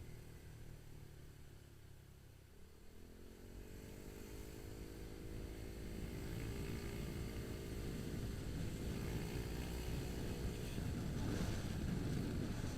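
Motorcycle engine pulling away from a stop: quiet at first, then about two seconds in its pitch starts rising, climbing in steps through gear changes as the bike gathers speed. Wind and road noise grow with the speed.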